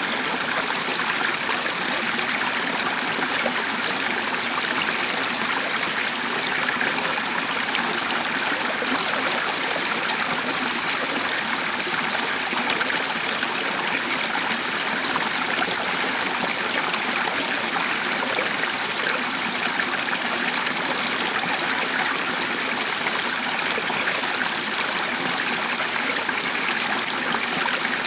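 Water running in a stream, a steady, even rush with no breaks.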